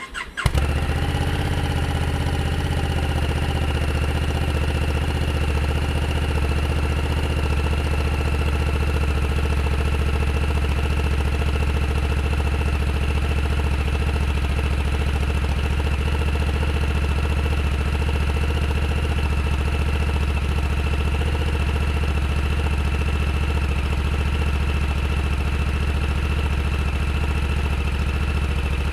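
Honda CRF1100L Africa Twin's 1084 cc parallel-twin engine starting right at the beginning and settling into a steady idle, heard close behind the muffler.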